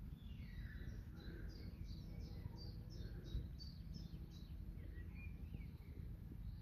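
Songbirds singing in springtime. One bird gives a run of about a dozen high, downward-sliding notes, about three a second, between roughly one and four and a half seconds in, while other birds chirp more softly. A steady low background hum runs underneath.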